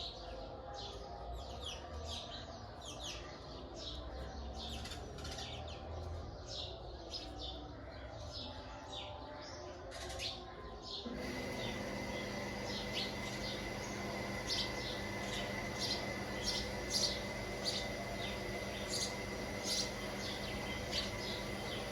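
Indian ringneck parrot chirping: a long run of short, high chirps. About halfway through, a steady hum comes in underneath.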